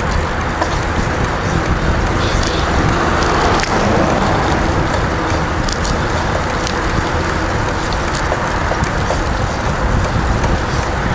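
Steady rushing noise from riding a bicycle along a road: wind and tyre noise, with traffic in the background.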